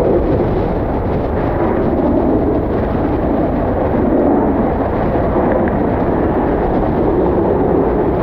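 Strong gusting wind buffeting the camera microphone: a loud, rolling rumble that swells and eases without a break.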